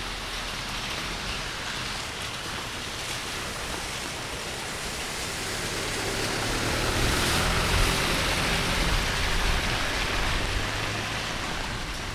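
Heavy rain falling steadily in a forest. About halfway through it grows louder, with a low rumble underneath, then eases a little near the end.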